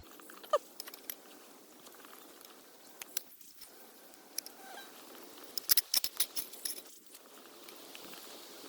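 Light metal clicks and clinks of a spork against a small pan, scattered and then a quick run of them about six seconds in.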